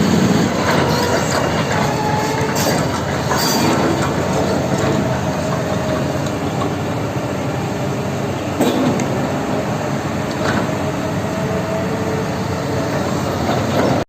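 Heavy diesel construction machinery running steadily, with metallic clanking and knocks over the engine noise.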